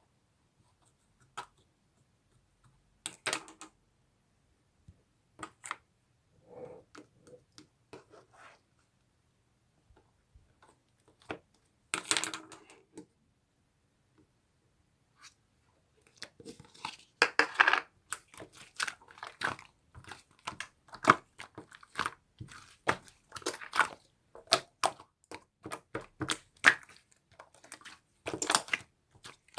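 Slime being squeezed, poked and stretched by hand, giving sticky clicks, pops and crackles: scattered at first, then a dense, continuous crackling from about halfway through.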